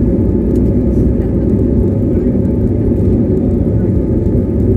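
Steady low rumble of an Airbus A320's engines and airframe heard from inside the passenger cabin.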